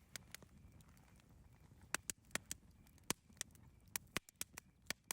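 Wood campfire crackling, with irregular sharp pops and snaps over a low, steady rumble of burning. The pops come thickest from about two seconds in.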